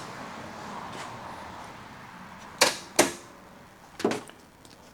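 A few sharp snapping clicks at uneven spacing, from a spark test on the 2.8 V6 ignition of a 1984 Chevrolet S10 Blazer. The spark is weak and erratic, which the owner calls poor performance.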